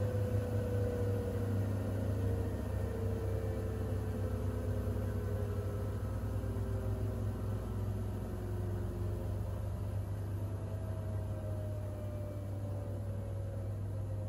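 Siemens iQ700 WG56B2090 front-loading washing machine running: a steady low hum under a faint motor whine that slowly falls in pitch, then starts again higher, several times over.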